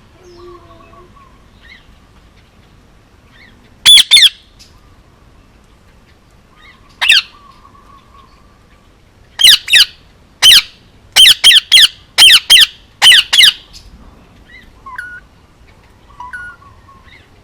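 Male Indian ringneck parakeet squawking: two loud, harsh squawks about four seconds in, one more a few seconds later, then a quick run of about ten. Faint soft chirps come before and after the squawks.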